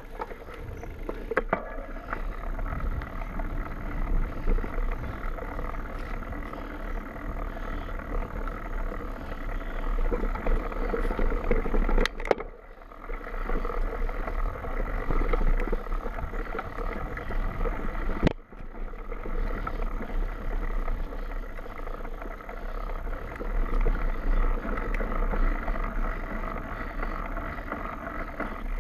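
Mountain bike running down a dirt trail: tyre and drivetrain rattle with wind rumbling on the camera's microphone, broken by two abrupt cuts about twelve and eighteen seconds in.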